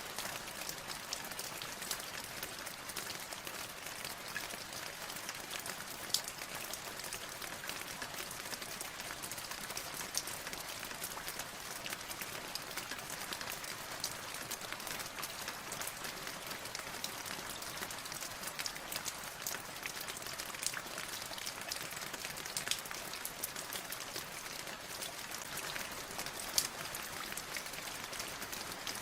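Steady rain falling, with many close individual drops pattering and ticking on a hard surface over the hiss of the rain; a few drops land louder, about six seconds in and near the end.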